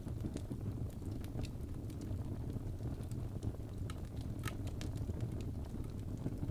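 Fireplace fire crackling: a steady low rumble with scattered, irregular sharp pops and crackles.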